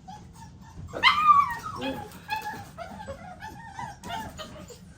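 Five-week-old American Bully XL puppy whining and yelping: a loud, high, falling cry about a second in, then a string of shorter whines.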